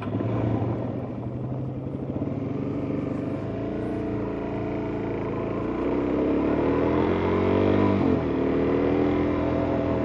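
Suzuki DR-Z400S single-cylinder four-stroke engine accelerating on the road, its pitch climbing and then dropping sharply about eight seconds in on a gear change, before pulling steadily again.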